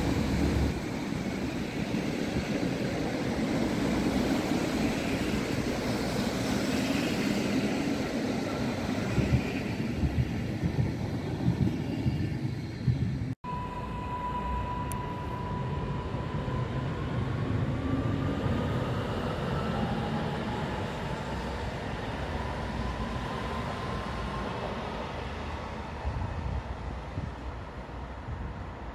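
Passenger coaches of an InterCity train passing at close range: a continuous rumble of steel wheels on rail, with a few sharper clacks over rail joints. It then gives way to an electric multiple unit pulling away, its traction motors giving a steady whine that slowly rises in pitch over the quieter wheel noise.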